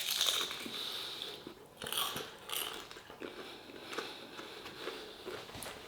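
A crisp vegetable spring roll bitten into and chewed, with a crunchy bite at the start and then irregular chewing and crunching.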